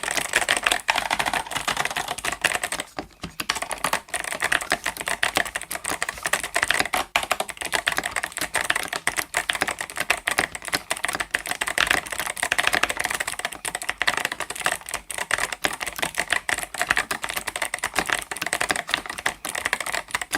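Fast, continuous typing on an 8BitDo Retro Mechanical Keyboard M Edition with its stock Kailh Box White clicky switches: a dense run of key clicks, with a brief lull about three seconds in.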